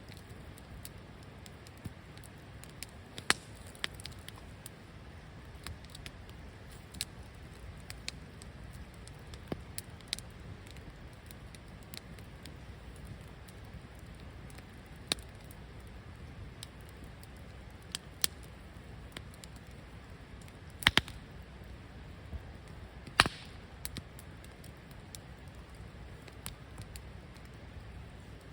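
Wood fire crackling in a fire pit: irregular sharp pops and snaps, the loudest about two-thirds of the way through, over a low steady rush.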